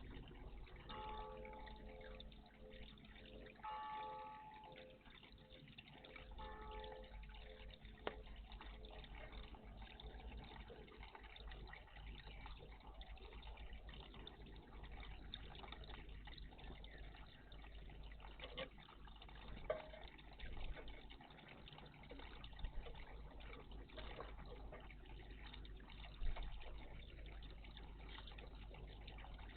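Faint splashing and dripping of water in a garden bird bath, with a few short, sharp splashes in the second half, the loudest near the end. In the first seven seconds three short groups of faint pitched notes sound over a low hum.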